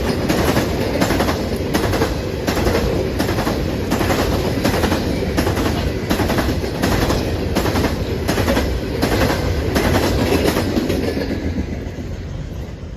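Railroad cars rolling past, wheels clicking over the rail joints at an even pace of about two clicks a second. The sound fades off near the end as the train moves away.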